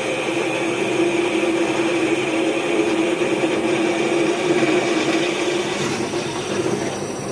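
Electric drill boring into 10 mm steel flat bar: a steady motor tone with cutting noise over it, dying away near the end.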